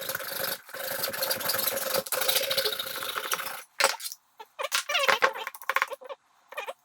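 A fast, dense rattling for about three and a half seconds, then a cat meowing several times.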